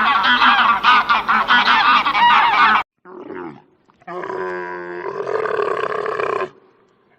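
Animal calls: a dense chorus of honking calls that cuts off suddenly about three seconds in, then, after a short gap, a different animal's long, low call lasting about two seconds.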